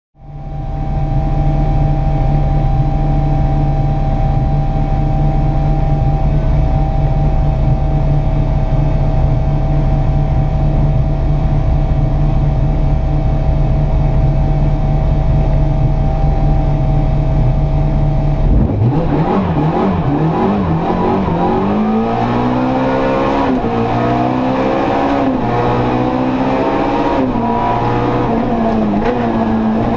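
Opel Kadett E rally car's 1.6-litre 16-valve engine, heard from inside the cabin, held at steady revs on the start line. About two-thirds of the way in the car launches and pulls hard through the gears, the revs climbing and dropping back with each upshift.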